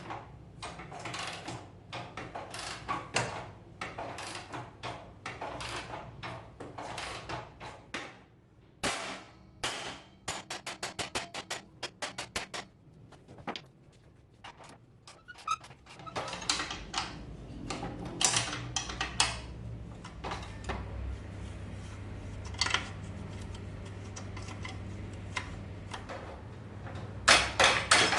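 Metal tools and motorcycle engine parts knocking and clinking as they are handled and worked on, with a quick run of evenly spaced clicks about ten seconds in, over a steady low hum.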